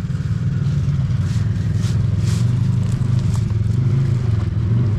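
Off-road vehicle engine running steadily while a machine works through a deep water crossing, with a few short hisses about one to two and a half seconds in.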